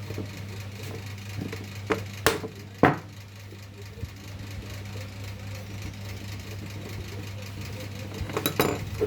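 Electric table fan motor humming steadily, with a few sharp metal clinks and knocks about two and three seconds in and again near the end.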